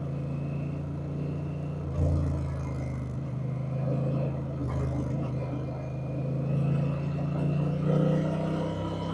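Honda Rebel 1100's parallel-twin engine running steadily while the motorcycle is ridden, its note shifting a couple of times, about two seconds in and near five seconds.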